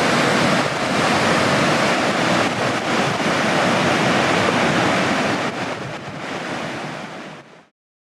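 Swollen river rushing in flood after a typhoon, a loud steady wash of water with some wind buffeting the microphone. It falls away and cuts off suddenly near the end.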